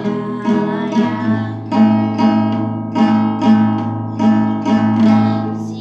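Acoustic guitar strummed in a steady rhythm, about two strokes a second, with a sung "laia" about a second in.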